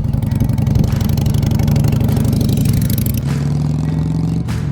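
Harley-Davidson V-twin motorcycle engine running and pulling away under throttle. Its note changes about three seconds in and dips briefly near the end.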